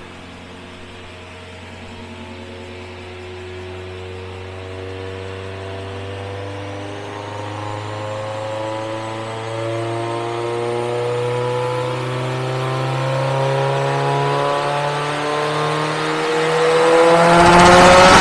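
Built 2011 Subaru STi's turbocharged flat-four, fitted with a GTX3576R turbo, running on a chassis dyno: the engine climbs slowly and steadily in revs with a faint high whine rising alongside, then about a second before the end it gets suddenly much louder as the throttle opens for a full-power pull.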